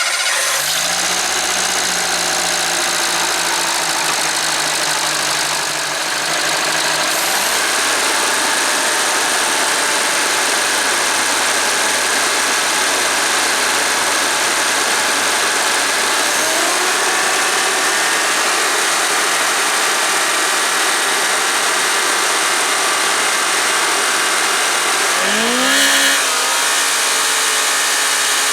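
Mitsubishi Pajero Mini's 4A30 inline-four engine running with its cam cover off, the valvetrain exposed. It idles just after starting, then its speed steps up and holds at each level, about a quarter of the way in, just past halfway, and again near the end, where it rises quickly and briefly.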